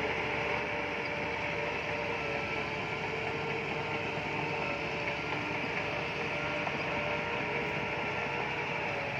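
Bulldozer working, its diesel engine running steadily under load with a few faint steady whining tones over the noise.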